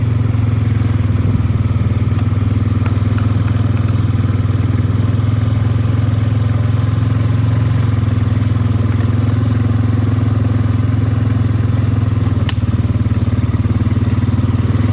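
ATV engine running at a steady speed while riding, a constant low drone, with one sharp click late on.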